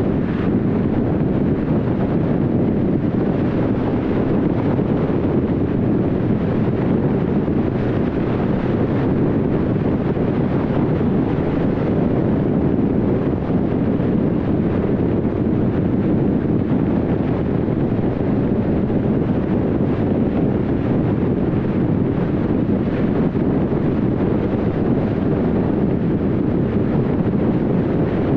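Steady road noise of a car driving at highway speed: an even rush of tyres and wind that does not change.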